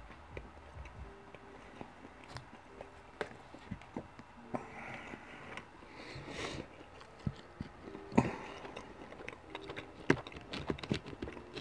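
A person chewing food with their mouth closed: soft, scattered wet clicks and mouth sounds, with one sharper click about eight seconds in.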